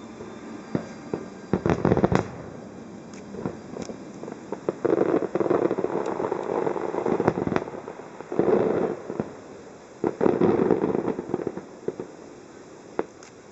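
Aerial fireworks bursting: scattered sharp bangs, with three longer stretches of dense crackling that each last a second or more, about five, eight and ten seconds in. It thins out near the end.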